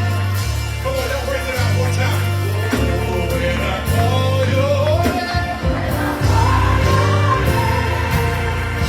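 Live gospel music: held bass chords changing every second or so under a single voice singing a winding line that climbs higher through the middle.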